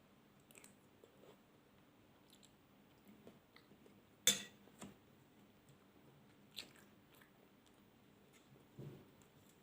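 Close-miked chewing, soft wet mouth sounds with a few sharp clicks, the loudest about four seconds in.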